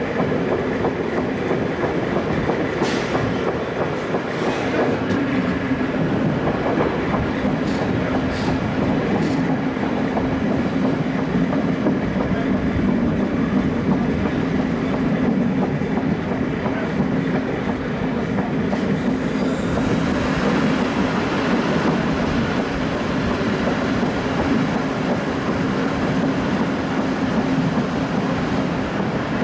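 Steel wheels of a moving diesel-hauled train rolling on the rails, heard through an open window of the old Ganz-Mavag coach: a steady rumble with a low hum, a few sharp clicks a few seconds in, and a brighter hiss joining about two-thirds of the way through.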